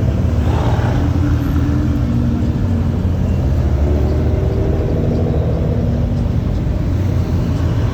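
A car engine running with a steady low rumble and a faint tone that drifts a little in pitch.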